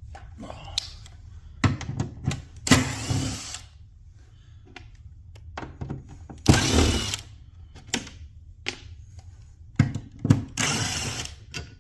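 Power drill or driver running in three short bursts of about a second each, with clicks and knocks of handling in between.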